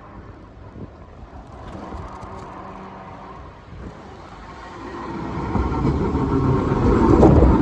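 An Iyotetsu train approaching on the track, its low running rumble growing steadily louder from about halfway through and loudest near the end.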